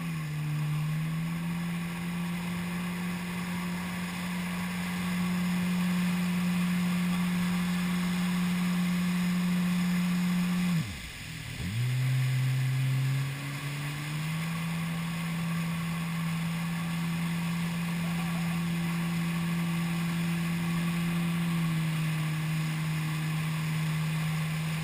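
Jet ski engine running at a steady cruising speed with a steady drone. About eleven seconds in the throttle is let off and the pitch drops sharply, then it climbs back up to speed. Near the end the pitch falls again as the throttle is released.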